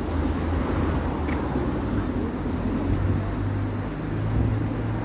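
City street traffic: vehicle engines running with a steady low hum over general road noise.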